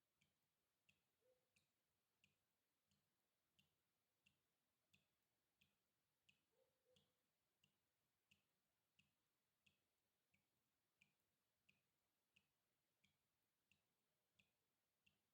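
Water dripping in a slow, even rhythm, about three drops every two seconds, each a short, faint plink.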